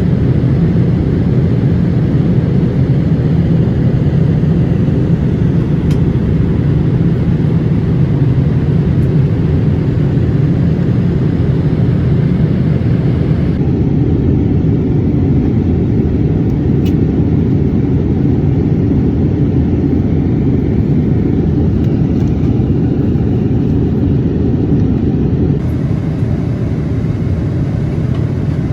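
Boeing 787-8 airliner noise heard from inside the cabin: a loud, steady low rumble of the jet engines and airflow, its thin high hiss dropping away for a stretch in the middle.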